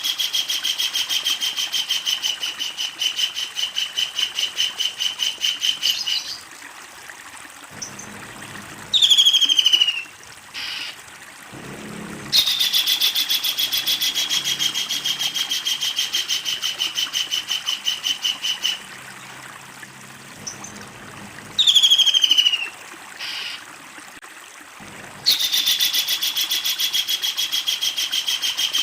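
Kingfisher calling with its long rattling 'laughing' call: three long bouts of rapid repeated notes, each opening on a falling note. Between the bouts come two short, sharp calls that fall in pitch, the loudest sounds here.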